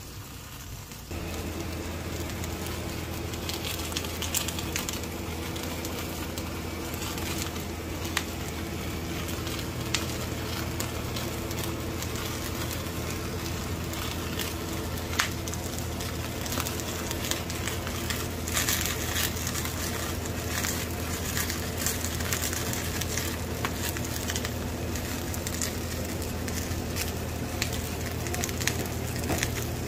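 Oak firewood burning in a wood-fired firebox under a cauldron, crackling and popping with scattered sharp snaps over a steady rush of flame. A steady low hum runs underneath from about a second in.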